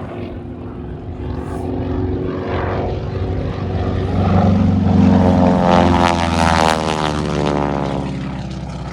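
Propeller airplane flying past: its engine grows louder, is loudest about two-thirds of the way through, and drops in pitch as it passes, then fades away.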